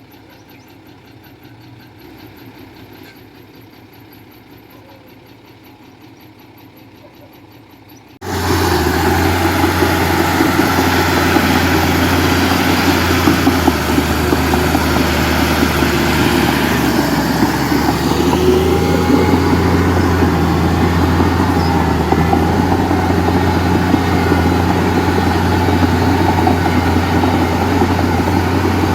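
A faint low engine hum, then about eight seconds in a heavy diesel engine comes in abruptly and runs loud and steady, with a strong low drone.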